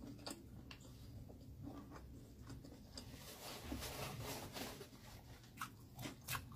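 Close-miked chewing of a bite of grilled Hungarian sausage with the mouth closed: soft wet mouth clicks scattered throughout, a hissing stretch around the middle, and a few sharper clicks near the end.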